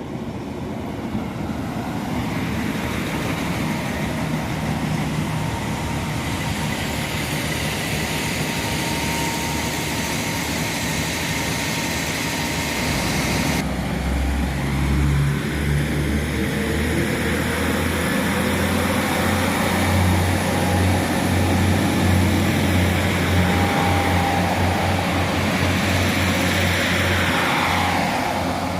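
Northern Ireland Railways Class 3000 diesel multiple unit running at the platform; from about halfway through a strong low engine drone comes in and grows slightly louder.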